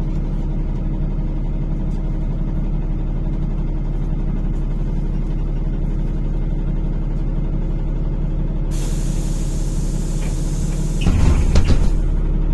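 NefAZ-5299 city bus engine idling steadily, heard from inside the bus. About nine seconds in, a loud hiss of released air from the bus's pneumatics runs for about three seconds with a few clicks, and the engine grows louder near the end as the bus moves off.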